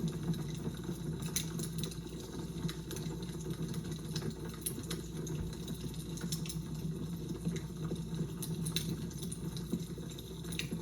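Fire crackling: irregular small pops and snaps over a steady low background rumble.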